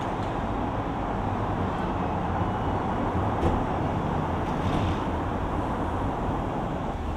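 Steady background rumble and hiss with a few faint clicks, of the kind heard from traffic or a busy room.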